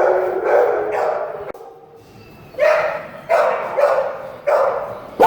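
Dogs barking in kennels: barking in the first second and a half, a short lull, then a run of sharp barks about one every half second to the end.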